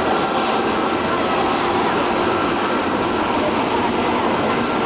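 Airbus A380 jet engines running loud and steady, with a thin whine over the noise.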